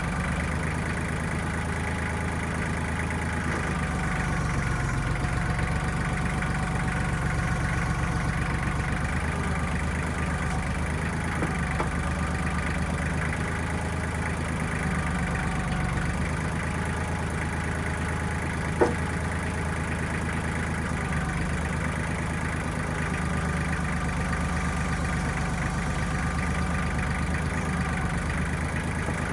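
The diesel engine of a 1995 Kubota backhoe running steadily, a little louder for a few seconds near the start, with one sharp click or knock about nineteen seconds in.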